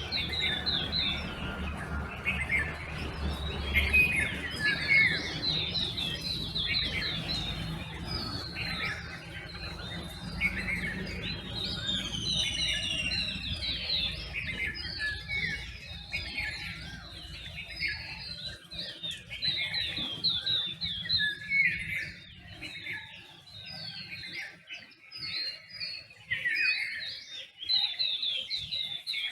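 Dawn chorus: many birds chirping and calling over one another in quick, overlapping phrases. A steady low hum runs underneath and fades out about 24 seconds in.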